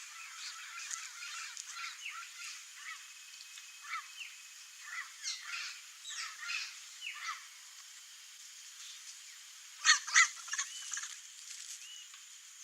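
Turquoise-fronted parrots (Amazona aestiva) calling: a run of short, harsh squawks and honks, the two loudest close together near the end.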